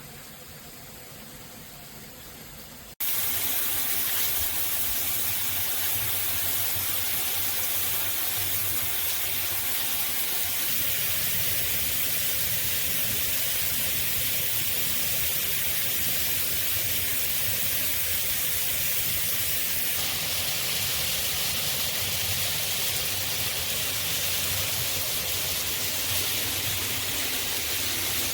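Water spraying steadily from a high-pressure handheld shower head. A softer hiss for about three seconds, then it jumps suddenly to a loud, steady spray.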